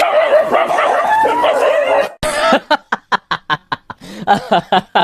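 A dog whining with a wavering pitch for about two seconds, then yapping in a fast run of short barks, about five a second.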